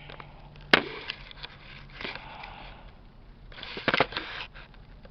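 Lovebirds moving about in their cage: a sharp knock about a second in, then scattered clicks and rustling, with a louder cluster of knocks near four seconds.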